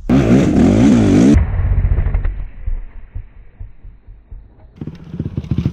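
Motorcycle engine noise: loud at first, its pitch swinging up and down for a second or so, then running quieter until it picks up again near the end.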